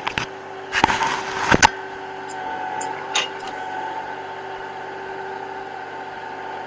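Kubota L3560 diesel tractor engine running steadily. About a second in there is a brief loud burst of noise, followed by a few light clicks.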